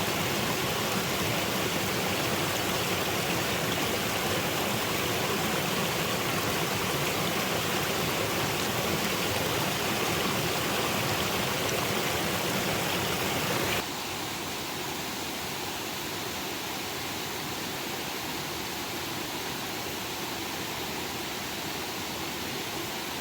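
Steady rushing water sound, dense and even, which drops suddenly to a lower, duller level about fourteen seconds in.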